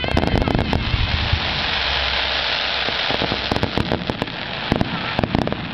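Fireworks crackling: many sharp, dense pops and snaps over a steady hiss, heaviest in the first second and again from about three and a half seconds in.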